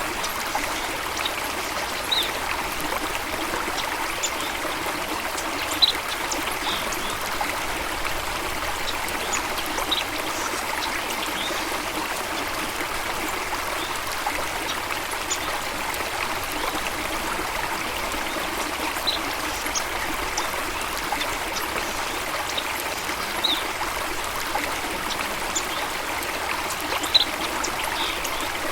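Flowing water of a stream, a steady rushing and trickling, with a few short high bird chirps scattered through.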